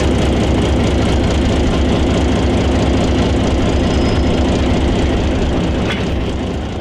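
Vintage diesel switcher locomotive's engine running steadily at a low, even throb, easing off slightly near the end.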